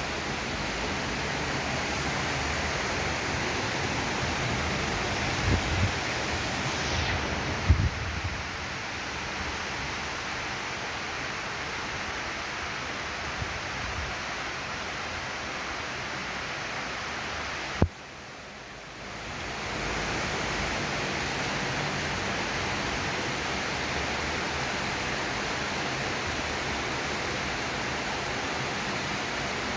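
Heavy rain falling, a steady hiss. A few low thumps come in the first quarter, and a sharp click about two-thirds of the way through is followed by a brief dip in the rain sound before it returns.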